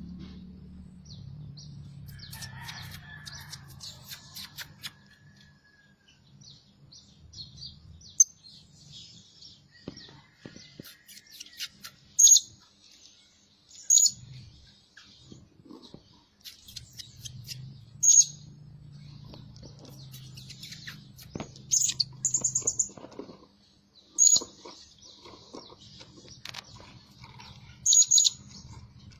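Blue-crowned hanging parrot calling: a stream of faint high chirps with half a dozen loud, short, shrill calls spread through, the loudest a quick run of them near the middle.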